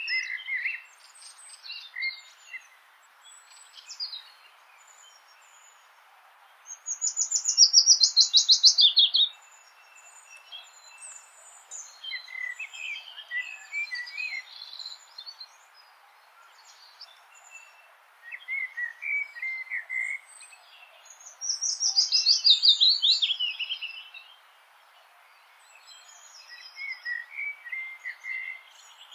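Songbirds singing in a spring evening chorus, with scattered short chirps. Twice, about a quarter of the way in and again about three quarters in, a loud song phrase of rapid notes runs down in pitch for about two seconds. A steady soft hiss lies underneath.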